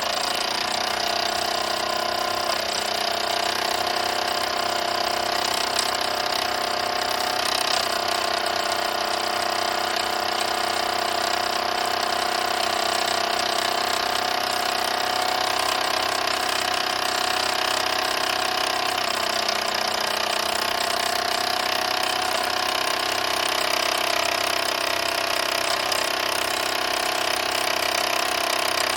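Mamod SE1 toy steam engine starting up and then running steadily, with a continuous hiss of steam over its mechanical running note.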